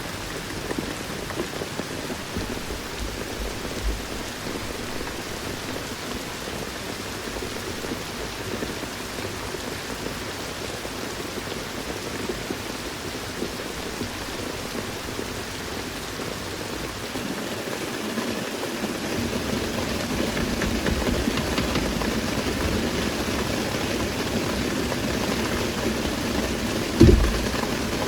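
Steady rain falling, growing heavier with a deeper low rumble about two-thirds of the way through. A single sharp thump comes near the end.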